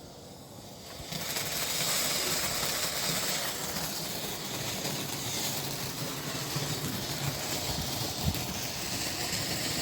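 Firework fountain hissing and rushing steadily after catching about a second in, with a single short pop near the end.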